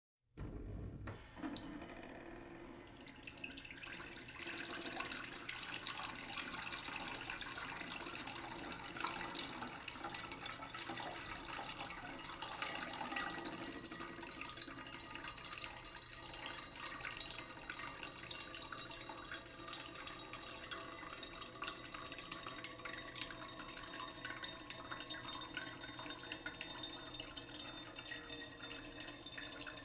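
Tap water running slowly into a cooking pot in a sink: a steady trickling stream that begins just after the start.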